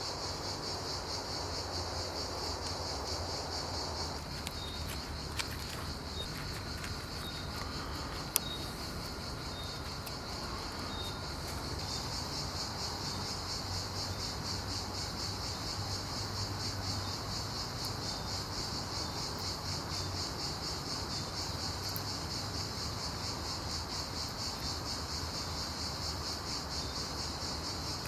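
A steady, high, pulsing chorus of insects chirping, cricket-like. It thins for several seconds after the start, then fills back in, with a couple of sharp clicks in the quieter stretch.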